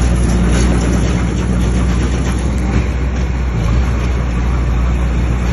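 Heavy diesel engine of a bulldozer running steadily at working speed, with a deep, even drone.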